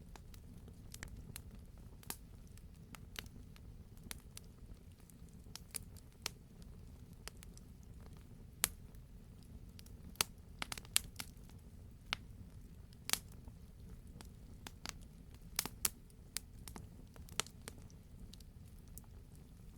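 Wood fire crackling in a fireplace: irregular sharp pops and snaps, a few louder ones, over a steady low rumble of the burning fire.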